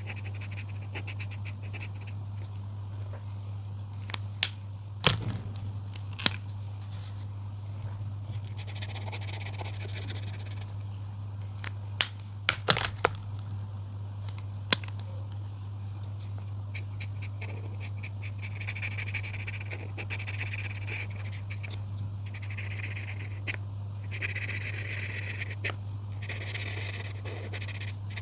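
Coloring strokes on paper: short stretches of scratchy rubbing, heaviest through the second half, with a few sharp clicks about four to six seconds in and again around twelve to fifteen seconds. A steady low hum sits under it all.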